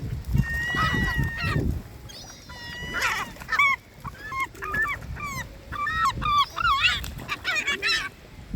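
Birds calling: short, pitched calls that bend up and down in pitch, a few at first and then a quick run of many from about three seconds in.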